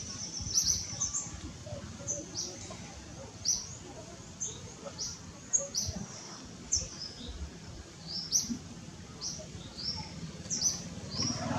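A bird chirping over and over: short, very high chirps that drop in pitch, about one or two a second.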